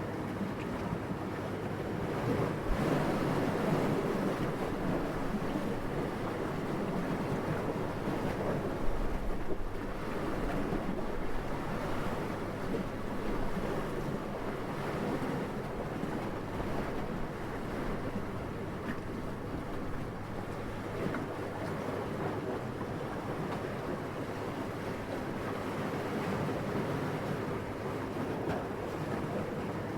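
Steady night wind blowing, a continuous rushing that swells in gusts about three seconds in and again around nine seconds, the second with a low rumble.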